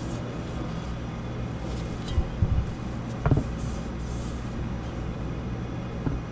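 Steady low hum of shop background noise, with a few short knocks and clinks of metal engine parts being handled: a cluster a little past two seconds in, a sharper one after about three seconds, and a faint one near the end.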